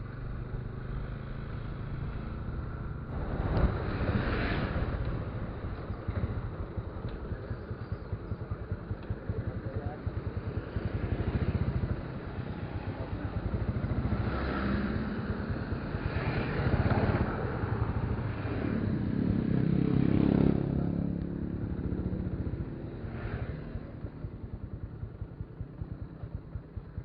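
Motorcycle engine running as the bike is ridden, a fast low pulsing throughout, with several louder swells of noise along the way.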